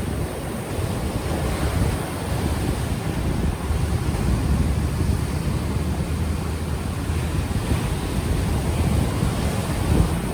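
Ocean waves washing ashore in a steady rush, with wind buffeting the unshielded microphone as a low rumble underneath.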